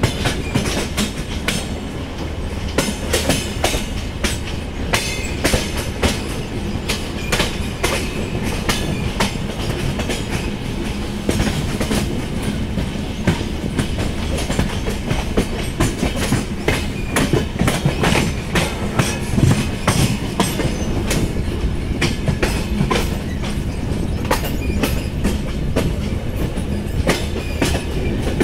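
A moving Indian Railways passenger train's coach running at speed: a steady rumble of wheels on track with a stream of irregular clicks and clatters as the wheels pass over rail joints.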